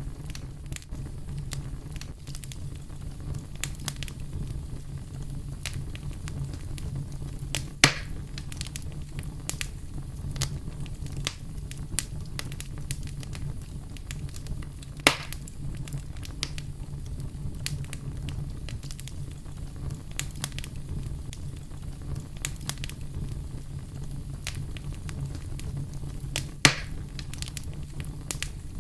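Wood fire crackling, with many small snaps over a steady low rumble. Three louder pops stand out, about eight seconds in, about halfway, and near the end.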